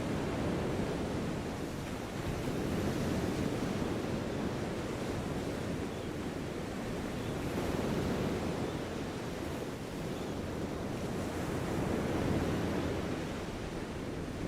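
Steady rushing ambient noise with no distinct events, heaviest in the low range and swelling and easing slowly every few seconds.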